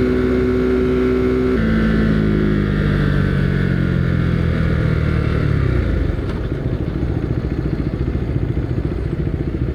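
Husqvarna Svartpilen 401's single-cylinder engine running steadily, then the throttle closes about a second and a half in and the engine speed drops and keeps falling as the bike slows. From about six seconds in it settles into a low, uneven putter at low speed.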